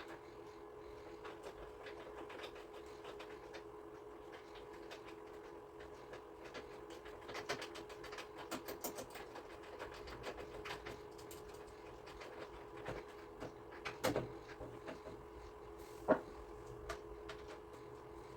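Scattered small clicks and knocks of hand work, as a spot light is fitted into a plastic front valance, over a steady low hum. Two sharper knocks stand out near the end.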